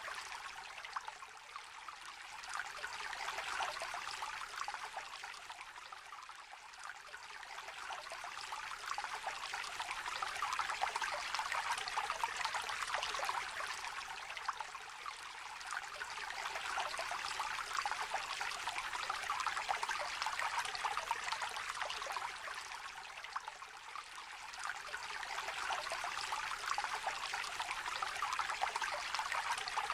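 Small river trickling and babbling gently, a steady water hiss whose level slowly swells and eases every several seconds.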